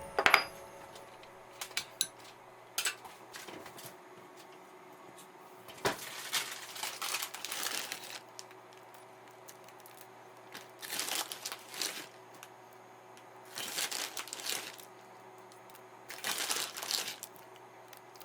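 Several short spells of crinkling and rustling, as of paper or packaging being handled, with quiet gaps between them.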